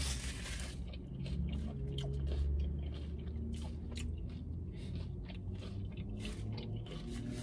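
A person chewing a mouthful of a Chipotle burrito bowl (rice, black beans, chicken, corn, lettuce): a steady run of irregular wet mouth clicks and smacks.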